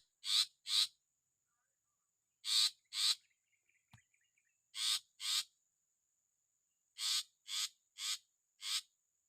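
Long-tailed shrike (cendet) giving short, harsh scolding calls: three pairs, then a run of four. This is the alarm of a parent bird near its nest. A faint steady high whine sits underneath.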